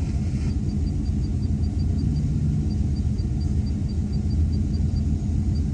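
Car engine idling with a steady low rumble. A faint, rapid high pipping, about six pips a second, runs over it with a short break partway through.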